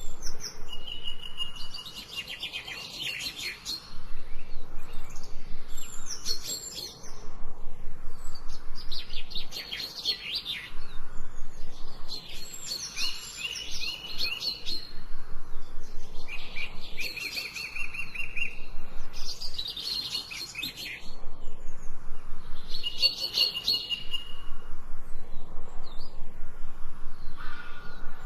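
Songbird song: short phrases repeated every few seconds, each a rapid string of high chirping notes ending in a short trill.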